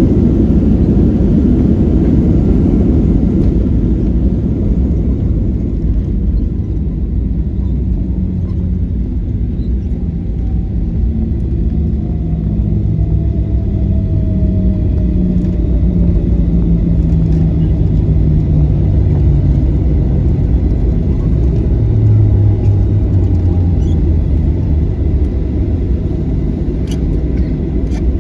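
Steady loud rumble of a Boeing 737-900 airliner heard from inside the cabin. A whine falls slowly in pitch from about ten to sixteen seconds in.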